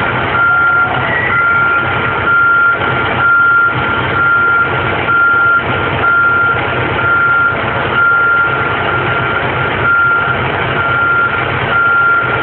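A work truck's reversing alarm beeping steadily in a single high tone, over the loud running of a heavy engine.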